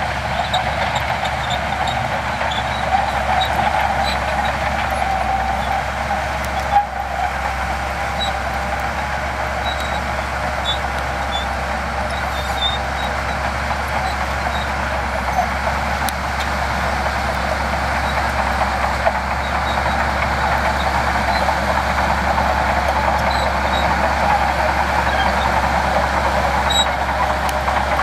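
Heavy earthmoving machinery running steadily, the engine noise holding level throughout, with a single brief knock about seven seconds in.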